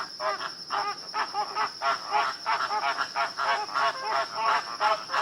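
An animal, likely a bird, calling in a fast run of short arching notes, about four or five a second, without a break.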